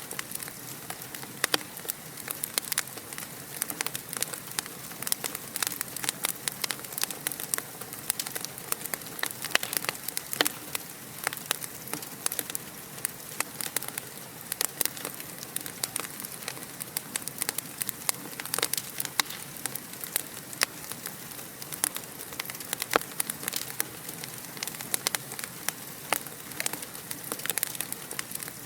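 Wood fire crackling steadily in a fireplace: a constant soft hiss with many quick snaps and pops, several a second, some louder than others.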